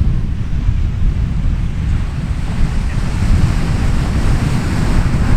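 Wind buffeting the microphone in a heavy, uneven low rumble, over the steady hiss of ocean surf washing on the beach.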